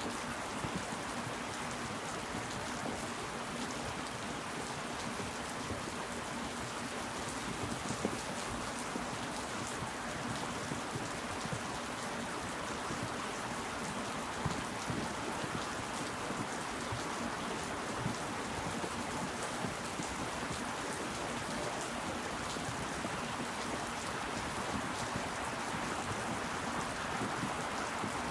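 Steady rain falling, a continuous patter with single louder drops striking now and then.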